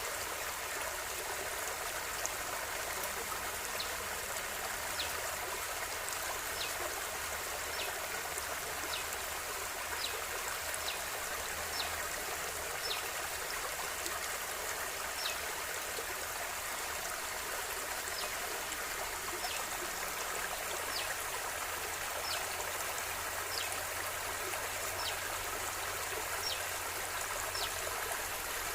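River water flowing steadily, a constant even rush. Short, faint high chirps recur about once a second.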